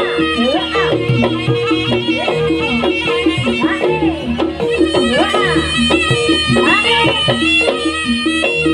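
Live Javanese jaranan music: gamelan-style held metallic notes under a sliding, bending melody line, with a steady drum beat throughout.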